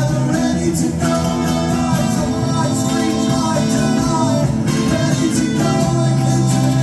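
Live rock band playing a song, with guitar prominent, in a stretch between sung lines.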